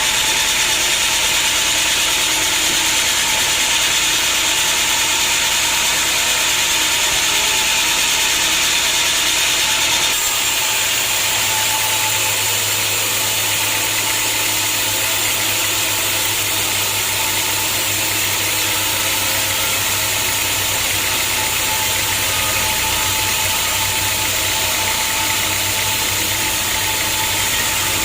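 Homemade sawmill running steadily while sawing a teak log. About ten seconds in the sound changes and a low hum joins it.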